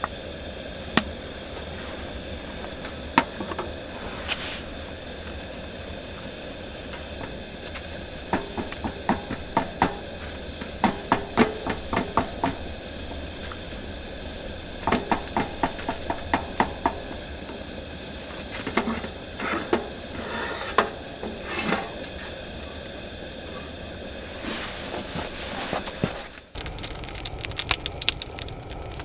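Cooking utensils clinking and tapping against pots and dishes in irregular clusters, over a steady hiss. The background changes abruptly near the end.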